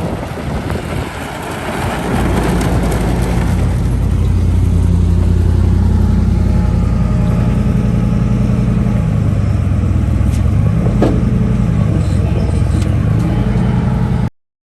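A vehicle running with a steady low hum that neither rises nor falls, cutting off suddenly near the end.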